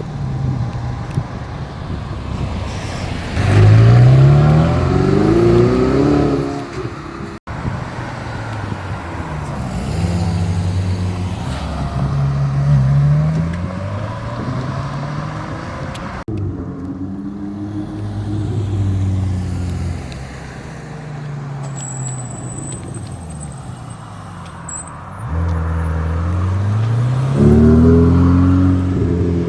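Ferrari sports car engines revving and accelerating, several cars in turn, their pitch climbing in a few hard runs with steadier running between.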